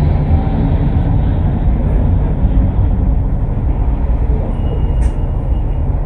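Steady low rumble of a Cummins ISL8.9 diesel-powered ADL Enviro500 MMC double-decker bus running along with road noise.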